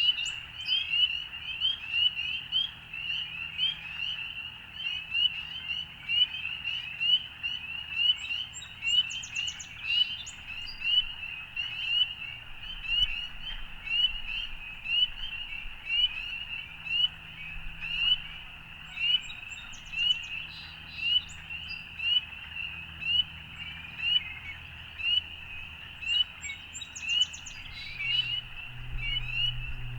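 A dense chorus of frogs calling, many short high chirps overlapping without a break, the nearest ones standing out about once or twice a second. A low steady hum comes in near the end.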